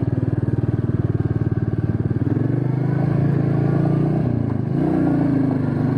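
Motorcycle engine running with an even, fast pulsing, turning into a smoother drone about two seconds in, its pitch rising and falling as the bike changes speed.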